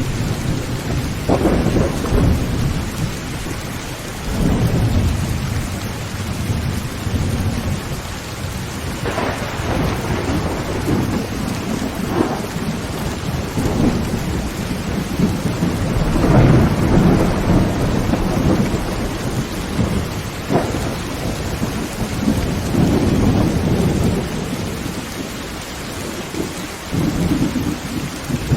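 Heavy rain drumming on a tin roof, with thunder rumbling again and again in low, swelling rolls, the strongest about halfway through.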